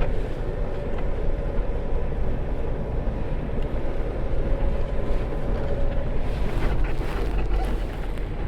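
Diesel semi-truck engine idling steadily: a constant low rumble with a faint steady hum.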